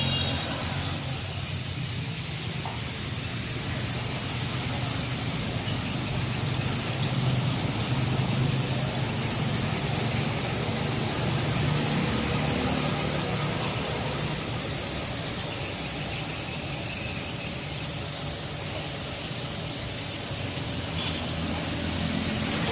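Steady motor-vehicle engine hum and road noise, with a low drone that swells and eases slightly from time to time.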